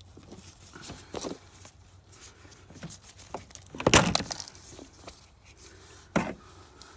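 Scattered clicks and knocks of hand work on zip-tied wiring in a minivan's engine bay, with one sharp knock about four seconds in and another about six seconds in.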